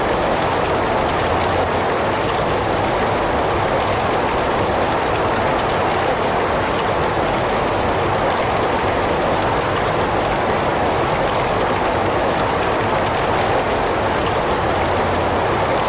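Heavy rain falling steadily, a dense even hiss without breaks or single drops standing out.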